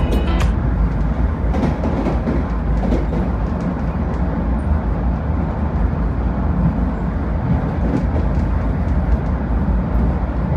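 A Vande Bharat Express electric train running at speed, heard from inside the coach: a steady rumble of wheels on rail with rushing noise.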